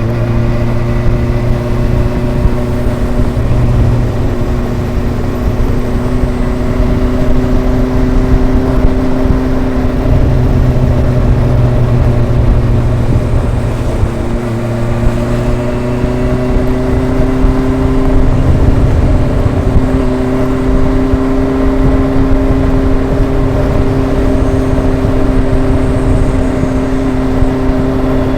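Kawasaki ZRX inline four-cylinder motorcycle exhaust under way at a steady cruising speed. The pitch dips about halfway through, then rises again and holds, as the throttle is eased and reopened.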